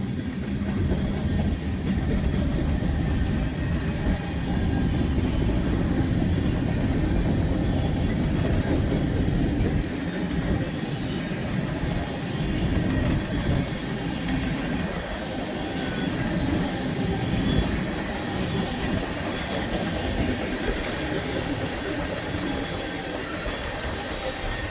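Freight train cars rolling past on steel wheels: a steady rumble with occasional clicks as the wheels cross rail joints.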